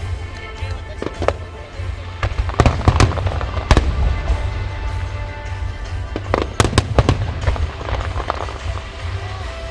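Fireworks shells bursting with sharp bangs, in clusters about a third of the way in and again past the middle, over music playing underneath and a steady low rumble.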